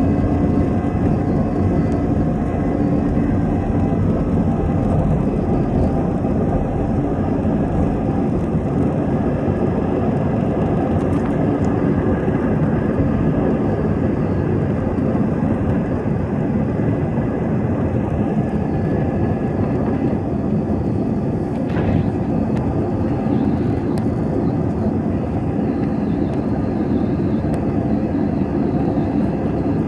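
Jet airliner engines running steadily: a continuous engine noise with several steady whining tones on top, with one brief click about 22 seconds in.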